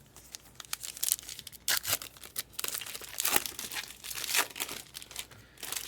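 Foil trading-card packs being torn open and crinkled, in a run of quick sharp crackles.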